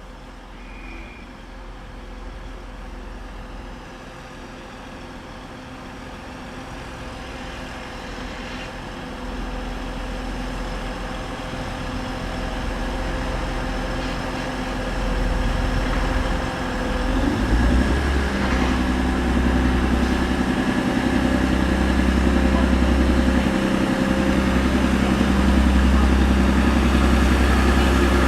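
Class 185 diesel multiple unit's engines running and growing steadily louder as the train pulls away. The engine note steps up and strengthens about 17 seconds in as the power increases.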